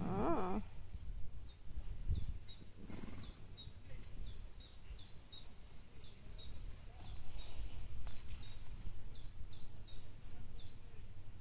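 A small bird chirping over and over, about three short falling chirps a second, starting about a second and a half in and stopping near the end, over a steady low outdoor rumble.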